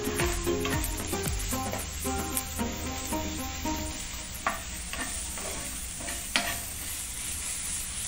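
Chopped onions with green chilli, ginger and garlic paste and curry leaves sizzling in oil in a nonstick frying pan. A metal spoon stirs and scrapes them, with a few sharp taps of the spoon against the pan.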